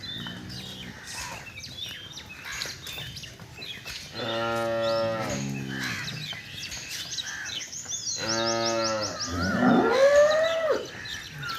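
Cattle mooing: two long, deep moos about four seconds apart, then a higher call that rises and falls near the end.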